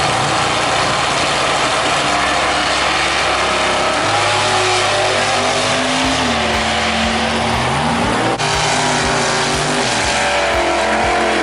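Drag-racing car engine running loud at high revs, its pitch rising and falling over heavy mechanical and tyre noise. The sound drops away sharply at the very end.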